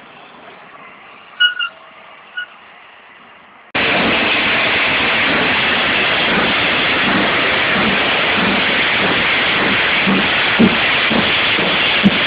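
Steam locomotive GWR 6023 King Edward II: a few short high pips, then about four seconds in a loud, steady hiss of steam starts suddenly, with low rhythmic beats coming through it in the last few seconds.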